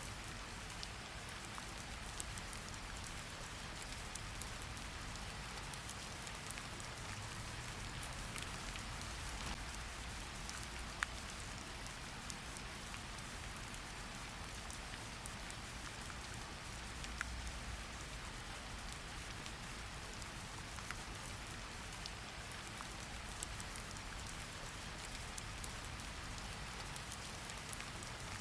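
Steady rain falling on a surface, an even patter dotted with individual drop ticks, a few louder single drips standing out.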